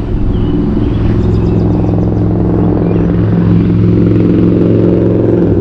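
A vehicle engine running steadily, a low, even hum.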